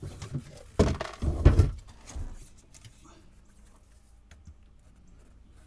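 A sharp knock about a second in, followed by a short cluster of heavy thumps, then only faint scattered handling noises.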